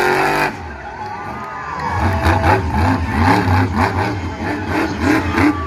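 Monster truck engine revving hard. It drops off about half a second in, then picks up again from about two seconds in with a run of quick revs.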